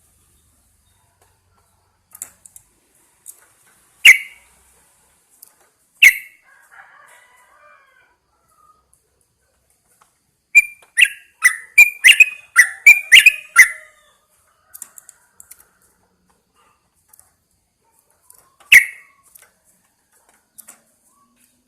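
Yellow-vented bulbul calling: single sharp notes about four and six seconds in, a fast run of about ten notes in the middle lasting some three seconds, and one more single note near the end.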